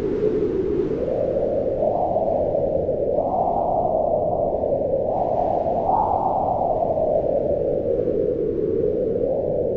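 Strong wind howling in a steady low rush, its pitch swelling up and falling back in slow gusts, highest about two, three and six seconds in.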